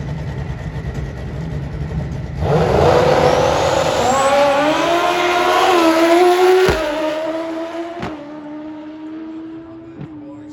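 Drag-racing motorcycle launching down the strip. A low engine rumble gives way to full throttle about two and a half seconds in, and the engine note climbs in pitch for about four seconds. It then drops and fades to a steadier, quieter drone as the bike gets further away.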